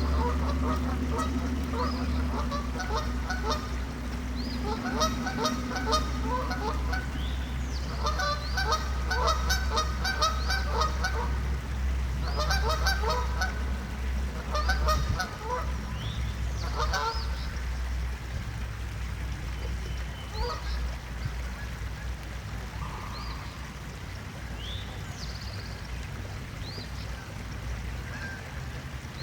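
A flock of geese honking in rapid bouts of overlapping calls, thinning out to scattered single honks in the second half. A steady low rumble runs underneath.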